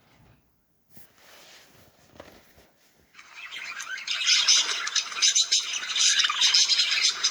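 Cockatiel giving harsh, rapid chattering squawks that start about three seconds in and become loud about a second later.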